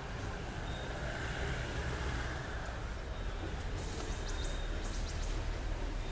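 Steady outdoor background noise with a continuous low rumble.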